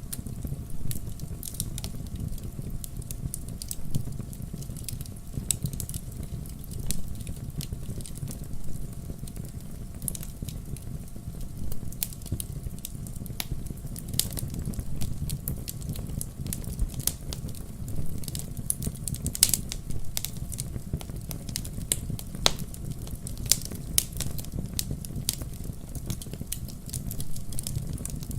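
Wood campfire crackling, with frequent sharp pops at irregular intervals over a steady low rumble.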